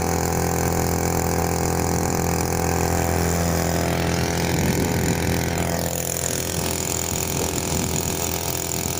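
Small air-cooled two-stroke outboard motor (Matsumoto MOB-830, 3 hp) running steadily while pushing an inflatable boat, its pitch shifting a little about halfway through.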